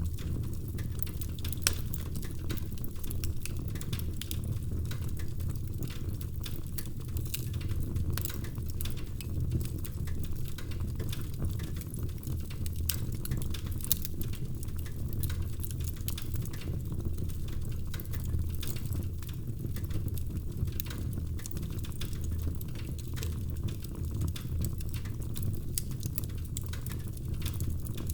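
Wood fire crackling in a fireplace: a steady low rumble of burning with irregular snaps and pops, several a second, a few of them louder.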